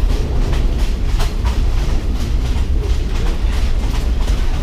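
Passenger train carriage running, heard from inside: a steady low rumble with irregular rattles and wheel clatter as the coach shakes hard on the track.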